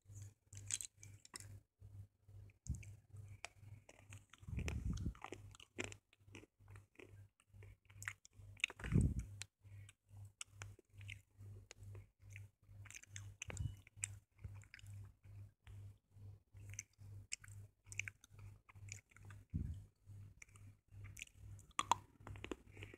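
Soft slate pencils being chewed: a steady run of quick, gritty crunches, with heavier bites about 5, 9 and 14 seconds in.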